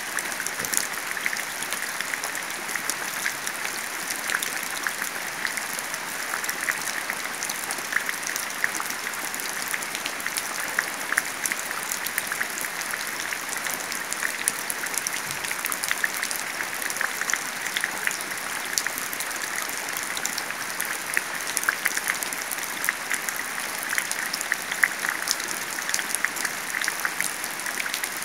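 Rain and drips from a roof leak falling into a shallow puddle: a dense, steady patter of many small splashes on the water.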